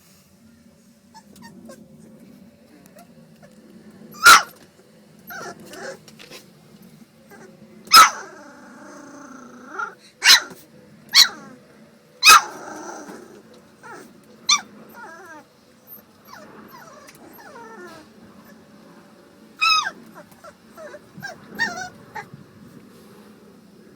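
Boxer puppies growling steadily, broken by sharp yips and barks, seven loud ones spread over the stretch, some trailing into brief whimpers.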